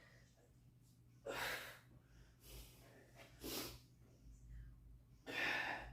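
A man exhaling hard in short, noisy breaths, about one a second, loudest near the start and near the end: breathing with the effort of a set of weight-training reps.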